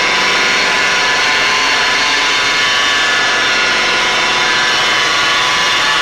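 Electric car-polishing buffer running steadily with a high, even whine.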